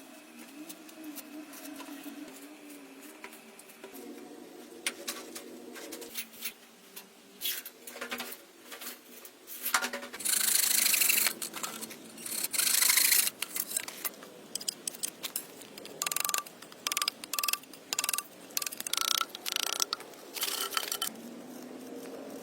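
Scraping and rubbing with scattered clicks and taps. The loudest scraping comes in two stretches about halfway through, and a faint steady hum sounds in the first few seconds.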